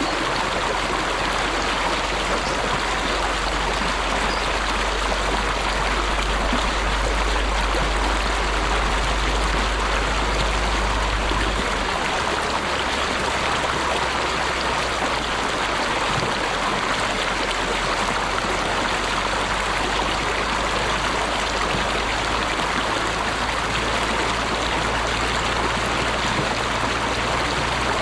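Flowing water rushing steadily, like a stream, with an even hiss strongest in the middle and upper range. A low rumble underneath drops in level about twelve seconds in.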